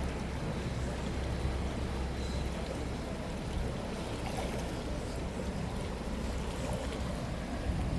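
Steady rush of flowing river water with a low rumble underneath.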